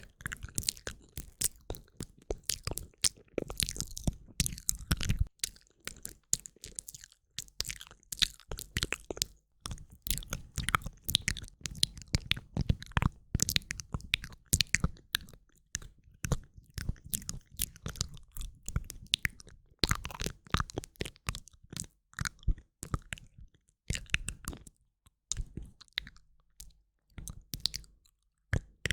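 Close-miked ASMR mouth sounds: a dense run of quick wet clicks and smacks of lips and tongue, broken by brief pauses every few seconds.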